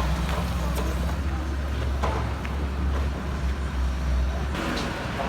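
Heavy diesel engine of a construction machine running with a steady low rumble. About four and a half seconds in, the rumble drops away abruptly and the sound changes.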